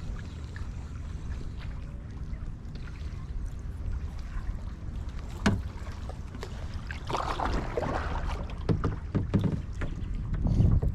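Wind rumbling on the microphone while water sloshes against a kayak. There is a sharp knock about five seconds in, a splash a couple of seconds later, then several more knocks and thumps on the hull near the end.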